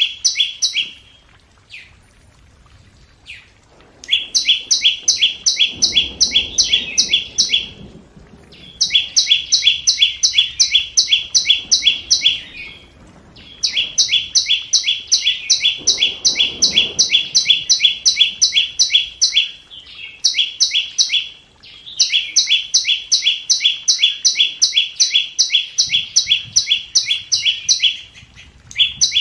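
Flowerpecker calling: a rapid, even series of sharp high notes, about four a second, in runs of several seconds with short pauses between.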